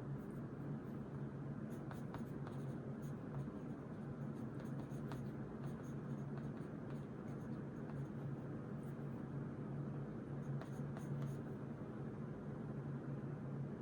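Pen writing on notebook paper: short, faint scratching strokes that come and go in small clusters, over a steady low hum.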